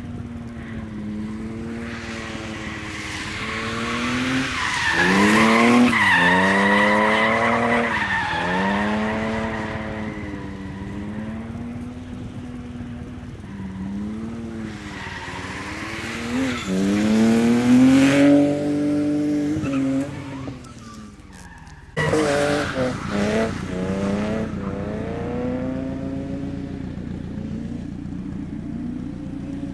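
A car's engine revving up and down in repeated surges as it drifts in circles on wet asphalt, with the tyres spinning and hissing on the wet road. It is loudest about six seconds in and again around eighteen seconds, drops away briefly around twenty seconds, then picks up again.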